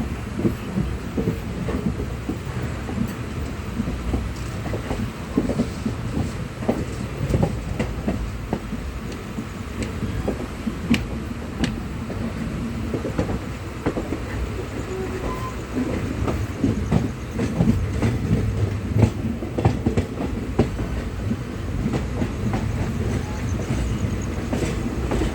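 Train moving on the rails: a steady low rumble with many irregular clanks and clicks.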